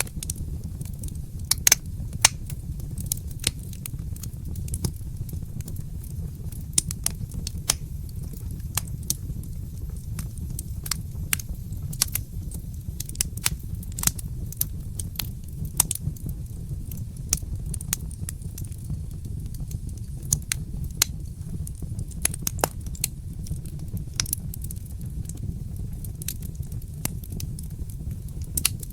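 Wood fire crackling in a fireplace: irregular sharp pops and snaps, several at a time, over a steady low rumble.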